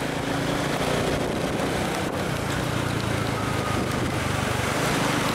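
Small motorcycle engine running steadily while riding, with wind rushing over the microphone.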